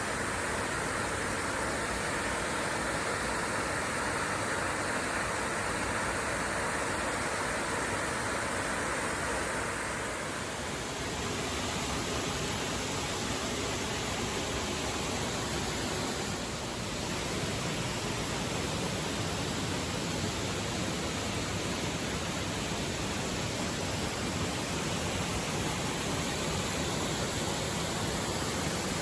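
Waterfall with a steady rush of falling water, its tone shifting slightly about ten seconds in.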